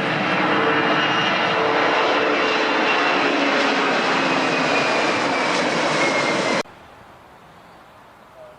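Airplane engine noise from a passing aircraft: a loud, steady rush with whining tones that slowly fall in pitch. It cuts off suddenly about two-thirds of the way through, leaving only a faint background hiss.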